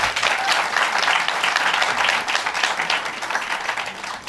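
Audience applauding and clapping steadily, dying down just after the end.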